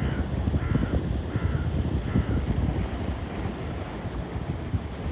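Sea waves and wind buffeting the microphone in a steady low rumble, with a gull calling four times, evenly spaced, in the first two seconds or so.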